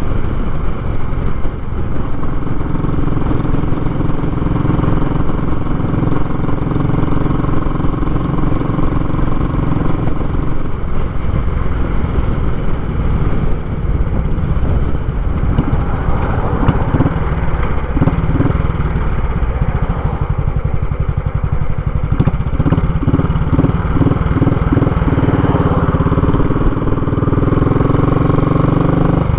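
Royal Enfield Classic 500's single-cylinder engine running loud through a short muffler, its note shifting a few times as the throttle changes.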